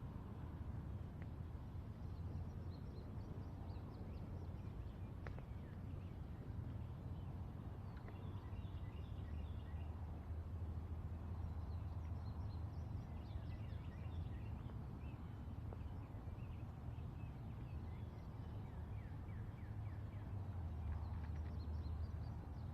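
Birds singing in repeated bursts of short, high chirping notes, over a steady low rumble of distant traffic.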